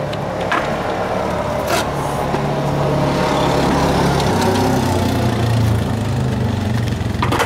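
Motor vehicle engine running close by, a steady low hum that drops in pitch a little past halfway. Two sharp clicks come in the first two seconds.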